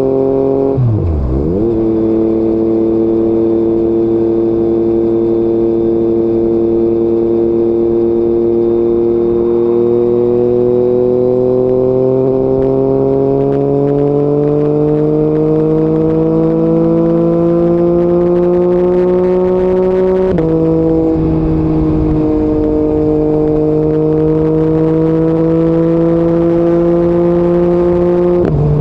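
Yamaha MT-09 three-cylinder engine with an Akrapovic exhaust, running under way. The note dips sharply and briefly about a second in, then climbs slowly as the bike gains speed. It drops suddenly at an upshift about two-thirds of the way through, runs steady, and breaks again for another gear change at the very end.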